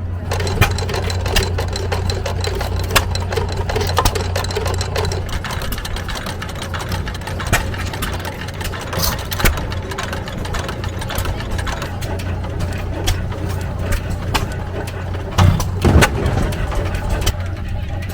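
Antique stationary farm engines running: a steady low engine drone with many sharp, irregular pops and clacks, typical of hit-and-miss engines firing.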